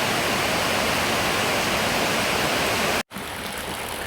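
Heavy rain pouring down in a steady hiss. About three seconds in it cuts off abruptly and a much quieter hiss follows.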